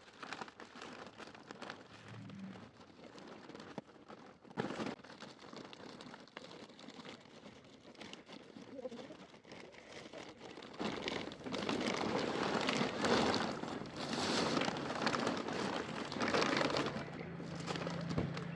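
Plastic bag rustling and crinkling as it is handled, louder in the second half.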